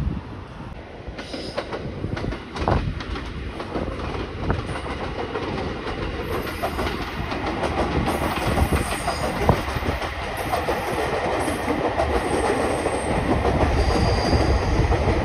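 An electric commuter train running along the tracks, a steady rumble with scattered clicks of wheels over the rails, growing louder toward the end.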